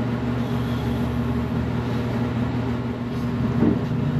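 Steady mechanical hum of a running electric motor, a low drone with a faint knock or two near the end.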